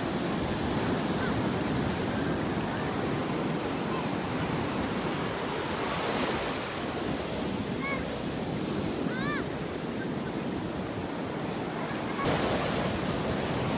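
Sea surf washing on a beach, a steady wash of breaking waves with wind buffeting the microphone. A few brief faint high calls come through about eight and nine seconds in, and the wash gets a little louder near the end.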